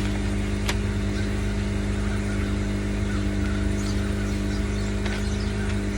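A steady low machine hum with one constant tone, like a motor or fan running. A single sharp click about two-thirds of a second in, and faint high chirps near the end.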